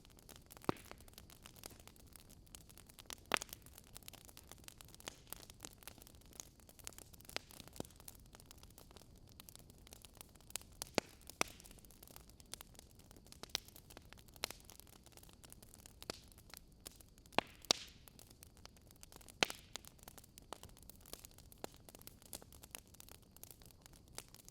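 Wood fire crackling in a fireplace: irregular sharp pops and snaps over a faint steady hiss, with a few louder pops scattered through.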